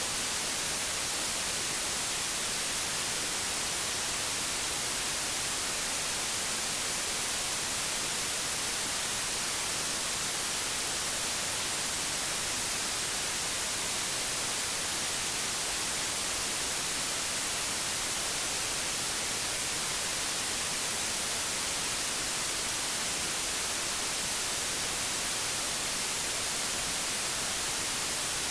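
Steady hiss of analog television static, even and unbroken, strongest in the high frequencies.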